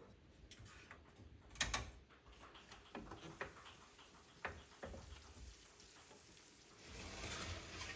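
Faint, scattered light clicks and knocks of objects being handled, with a sharp double click just under two seconds in and a short soft rushing noise near the end.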